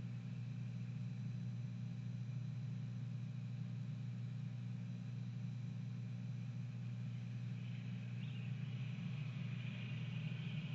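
Steady low rumble of outdoor background noise, with a faint, high, hissy chatter building near the end.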